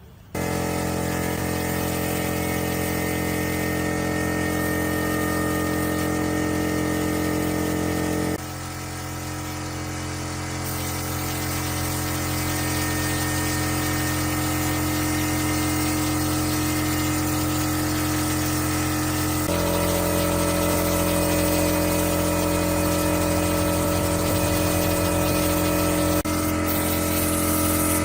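Restored air compressor running steadily with a constant pitch. Its tone shifts abruptly about 8 seconds in, again about 19 seconds in and once more near the end.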